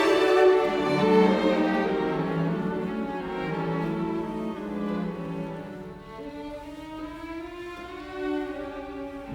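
Background music of slow, sustained bowed strings, violin and cello, softening toward the end.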